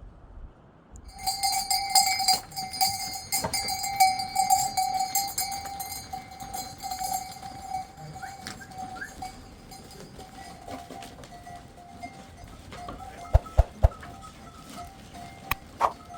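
Livestock bells clanking and ringing as the animals move, starting suddenly about a second in. A few sharper knocks come near the end.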